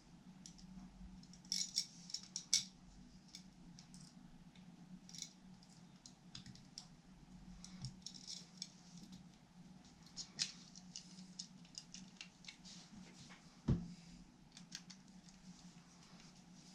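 Light clicks, taps and rustles of small parts and tools being handled on a workbench while a guitar is assembled, with a louder single knock about fourteen seconds in, over a faint steady hum.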